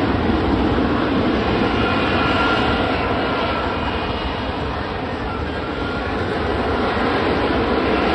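Lockheed Martin F-35B Lightning II jet engine running loud and steady: a dense rushing noise with a faint high whine through it, easing slightly midway and building again near the end.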